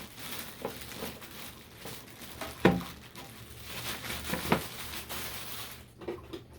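Packaging crinkling and rustling as it is handled, with scattered light clicks and two sharper knocks, the louder one a little under three seconds in.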